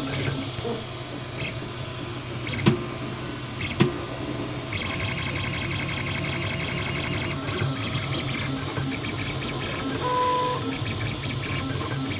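Homemade 3D printer running, its stepper motors buzzing in quick, shifting tones, with two sharp knocks a little over a second apart a few seconds in: the extruder knocking.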